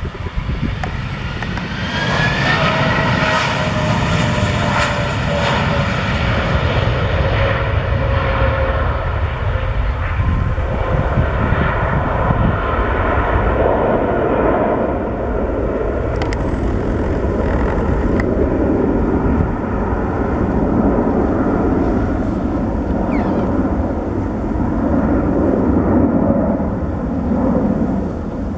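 Airbus A320 jet engines roaring as the airliner passes close by. A whine falls in pitch as it goes past, and a loud, steady roar continues after it.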